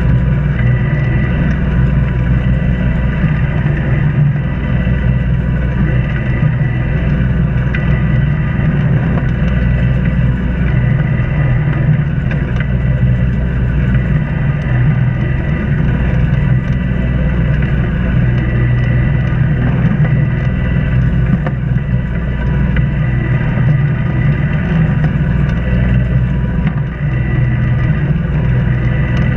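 Sailboat's inboard auxiliary engine running steadily under way at constant speed.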